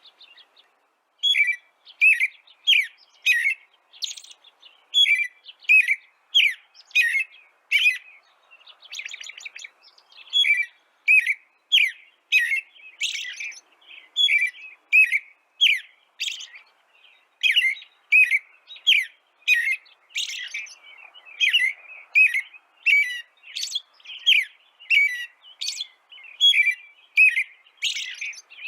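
A bird chirping in a steady run of short, high notes, about two a second, with a brief pause about a second in.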